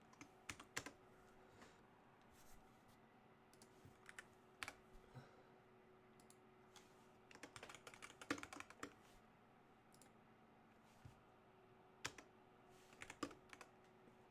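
Typing on a computer keyboard: short clusters of keystrokes separated by pauses, over a faint steady hum.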